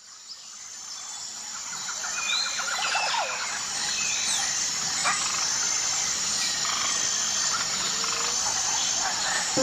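Outdoor nature ambience fading in: a steady high-pitched insect chorus with scattered bird chirps and a rapid pulsing trill-like call, over a soft background hiss.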